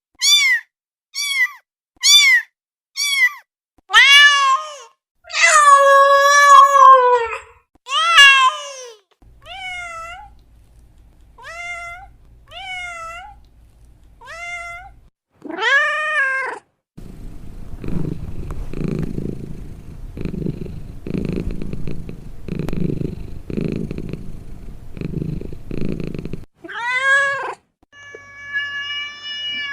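Domestic cat meowing: a quick run of short meows, then longer drawn-out ones and some softer ones. About halfway through it gives way to about ten seconds of purring in roughly one-second pulses, and two more meows come near the end.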